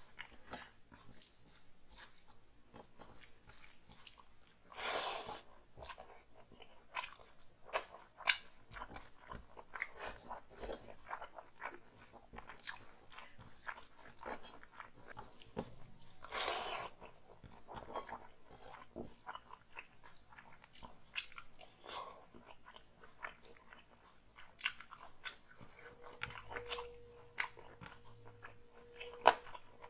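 Close-up mouth sounds of a person eating chicken curry and rice with his hand: wet chewing with many short smacks and clicks, and two longer, louder stretches, about five seconds in and around sixteen seconds.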